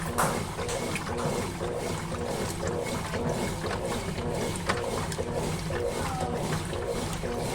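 Consul Facilite 11 kg top-loading washing machine agitating during its rinse: the motor hums and the water churns in an even, repeating back-and-forth rhythm.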